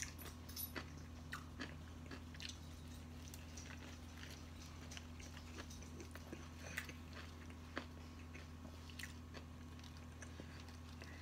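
A person chewing a mouthful of sandwich close to the microphone: scattered soft wet smacks and light clicks of the mouth, over a steady low hum.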